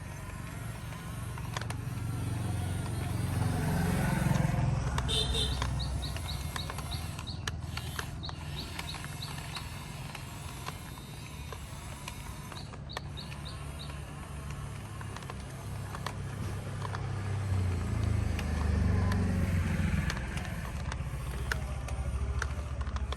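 Low engine rumble of motor vehicles going by, swelling twice, about four seconds in and again near the end. A run of short high chirps, about three a second, comes in the first half and briefly again near the middle.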